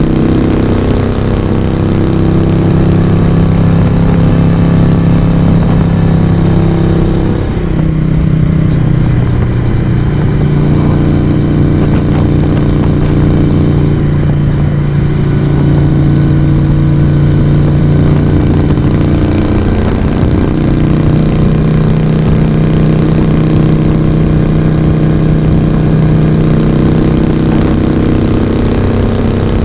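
Moto Guzzi V35's air-cooled transverse V-twin running under way at steady revs. Its exhaust note drops and shifts in pitch about a quarter of the way in, and again around two-thirds through.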